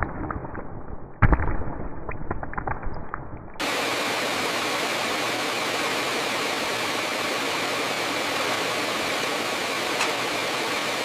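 Factory machinery: muffled clattering knocks with a heavy thump about a second in, then an abrupt cut to a steady, even rushing machine noise.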